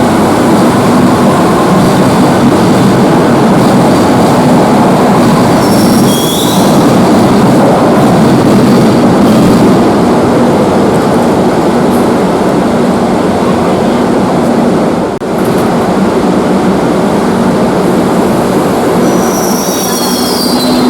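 Madrid Metro train running loud and steady along the station track, with brief high-pitched wheel squeals about six seconds in and again near the end.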